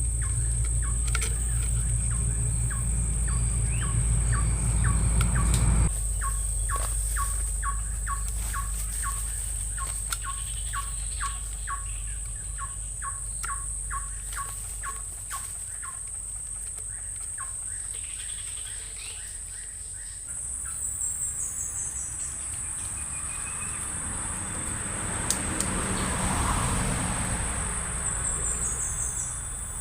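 Tropical riverside ambience: a steady high insect drone, with a bird calling in a run of short chirps about twice a second through the first half. Later come falling runs of high notes and a swelling hiss.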